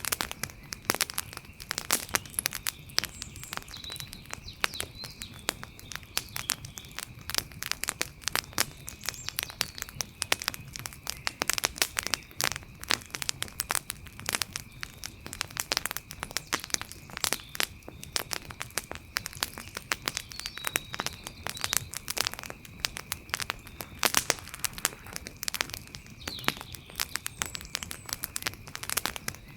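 Wood fire crackling: dense, irregular pops and snaps, with a faint steady high-pitched whine underneath.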